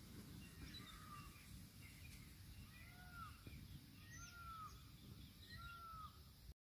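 A bird calling faintly with short rising-and-falling whistled notes, four times about a second and a half apart, over a low rumble; the sound cuts off abruptly near the end.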